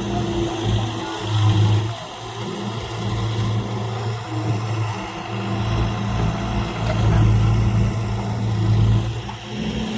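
Farm diesel engine running steadily with a low hum, swelling louder briefly about a second and a half in and again near the end.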